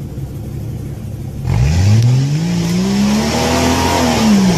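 A 4x4 SUV's engine revving hard under load on a rock climb. It idles low, then about a second and a half in the revs climb steeply, hold high and drop off again just before the end, with a loud rushing hiss over the top.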